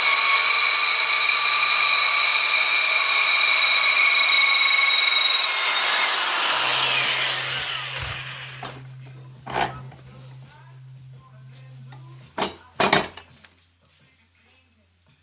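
A power tool runs loudly with a steady high whine. About five and a half seconds in it is released and winds down, its pitch falling as it fades. A few sharp knocks follow.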